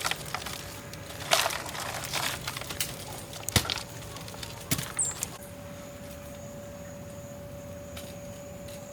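Scattered sharp cracks and snaps with some rustling, the loudest about three and a half seconds in, dying away after about five seconds; a faint steady high tone then holds.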